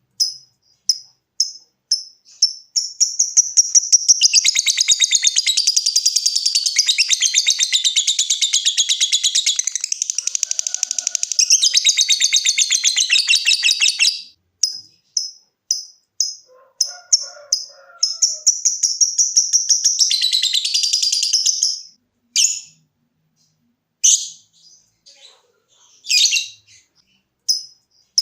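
Lovebird giving sharp, high ticking chirps about three a second (ngetik), then breaking into a long, rapid chattering trill of about ten seconds (ngekek). It goes back to ticking, gives a shorter trill, and ends with a few separate calls.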